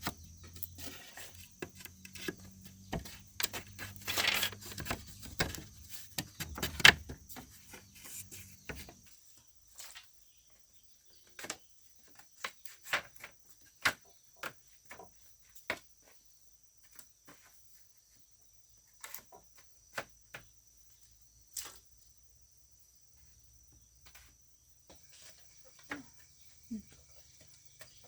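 Irregular knocks and taps of hand work on bamboo. They come thick for about the first nine seconds over a low steady hum, then as scattered single knocks with quiet gaps.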